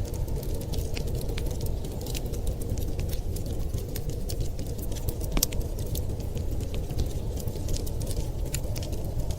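Wood fire crackling in a fireplace, with many small irregular pops and snaps and a sharper pop about five seconds in. Underneath runs a steady low rumble.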